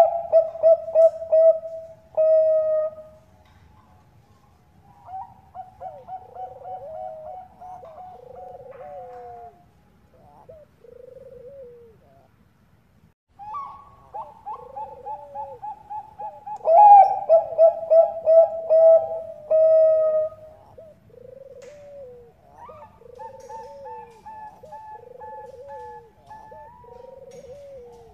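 Zebra dove (Bangkok perkutut) singing: repeated phrases of fast, rattling coos. Some phrases are loud and others quieter, with a brief pause about halfway through.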